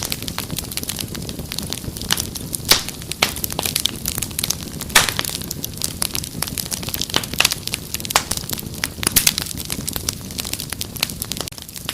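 Wood fire crackling, with a steady low rumble and frequent irregular sharp pops and snaps, the loudest about a third of the way in and near the middle.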